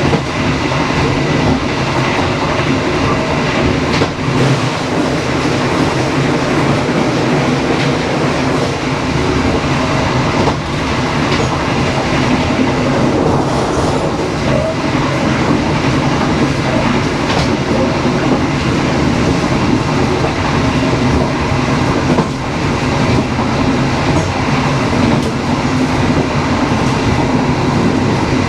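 Dharmawangsa passenger train running along the track: a steady rumble and rattle of the wheels on the rails, with a few faint clicks.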